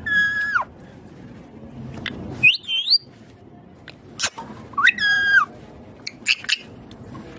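Indian ringneck parakeet calling: three short whistle-like calls about two seconds apart, the first and last held level and then dropping, the middle one rising. A few sharp clicks fall between them.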